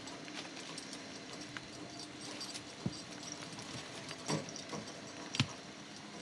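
Scattered knocks and clanks of the old steel tractor as it is dragged along on its bare wheel rim, three sharper knocks in the second half, over a steady low hum.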